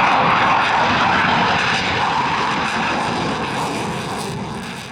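Military display aircraft engine noise, a steady rushing that fades gradually as the aircraft draws away.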